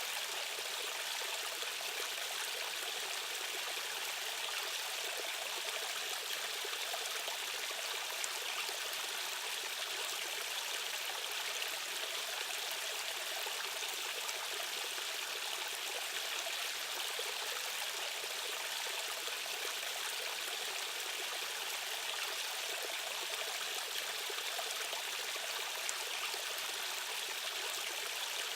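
Stream current and waterfall: water rushing steadily and evenly, a bright hiss-like rush with little deep rumble.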